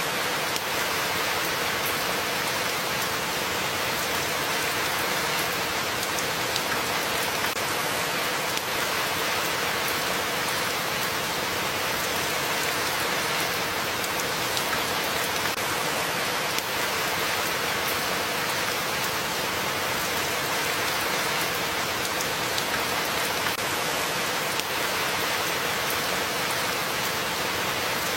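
Steady rainfall, with drops pattering on a surface.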